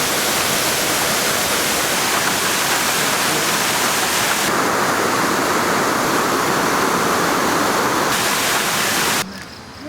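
Heavy tropical rain pouring down in a steady loud hiss, which cuts off abruptly near the end.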